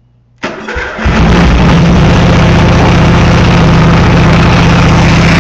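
Racing lawnmower engine, breathing through dual 3-inch exhaust pipes, cranked over and catching about a second in. It then runs loud and steady at low throttle.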